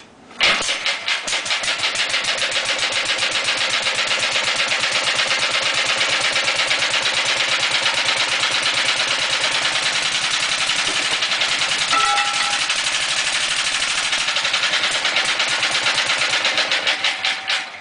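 Early-1930s Sattley 1½ HP single-cylinder stationary gas engine catching about half a second in and running at a rapid, even firing beat, then stopping just before the end.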